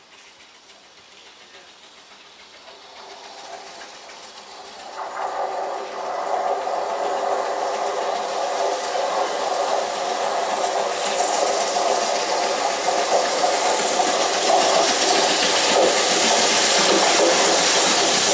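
A train approaching and running through the station without stopping: its sound builds from faint to loud over the first five seconds or so, then keeps up as a loud, steady rush of wheels on rail with hiss.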